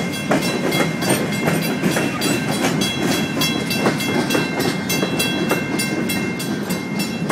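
Union Pacific train rolling past, its wheels clacking over the rail joints with sharp clicks a few times a second over a steady rumble, and a thin steady high whine.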